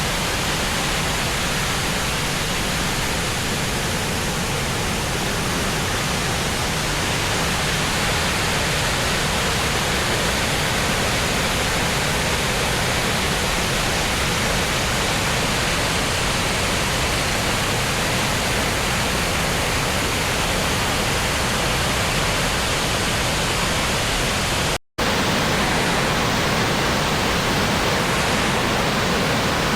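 Waterfall water rushing: a steady, dense hiss with no pitch, cutting out for an instant about 25 seconds in and then carrying on.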